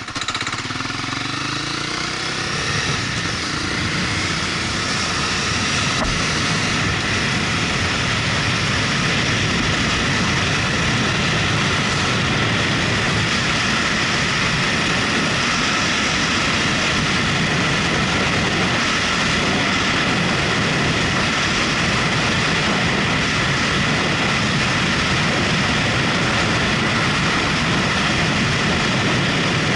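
Motorcycle engine pulling away, its pitch rising over the first few seconds, then settling into a steady drone of riding at speed, mixed with an even rush of wind and road noise.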